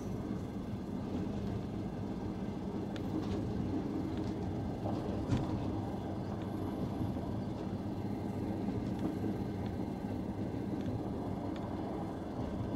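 Diesel-hauled passenger train running at speed, heard from an open carriage window: a steady rumble of wheels on rail with rushing air. One sharp knock about five seconds in.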